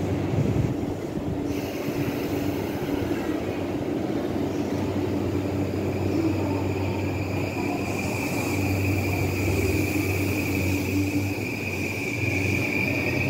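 JR East E235-1000 series electric train pulling away from the platform: the traction motors hum with a steady high whine, and a tone that starts to rise near the end as the train gathers speed.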